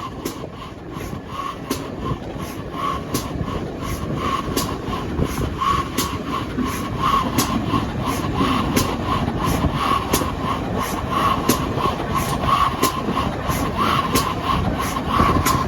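Train running along the track, its wheels clicking regularly over rail joints with faint short squeals from the wheels. The sound grows louder over the first several seconds, then stays steady.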